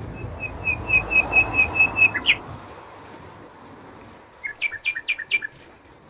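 Small songbird singing: a quick run of about ten even notes at one pitch that ends in a short flourish, then a second, shorter burst of notes about four and a half seconds in, over a soft rush of background noise.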